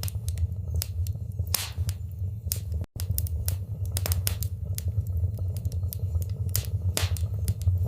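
Wood fire burning in a fireplace: irregular sharp crackles and pops over a steady low rumble of flames. The sound drops out for an instant about three seconds in.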